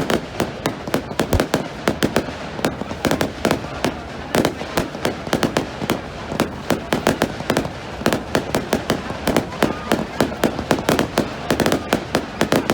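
Fireworks going off in a dense, continuous barrage of sharp cracks and bangs, many a second.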